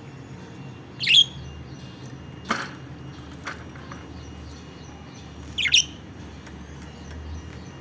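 Pet lovebirds giving two short, sharp chirps about four and a half seconds apart. Between them come a single sharp click and a few faint ticks, over a low steady hum.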